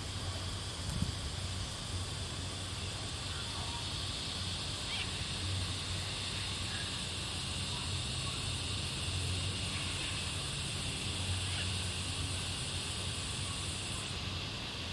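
Australian bush ambience at dusk: a steady high insect drone in two pitches, the higher one cutting out abruptly near the end, over a low hum that swells and fades, with a few faint bird chirps.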